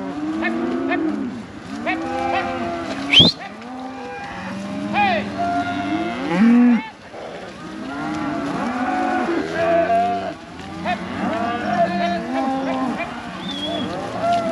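Herd of cattle mooing continuously, many overlapping calls of different pitches, as the cows and calves are driven along. A single brief sharp click cuts through about three seconds in.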